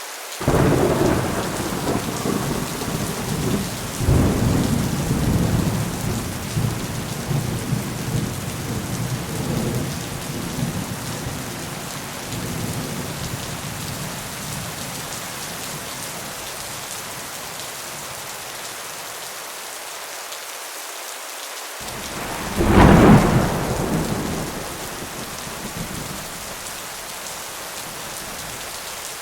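Steady rain with thunder: a long rolling rumble begins right away and dies away over about twelve seconds, then a second, sharper clap of thunder about 23 seconds in.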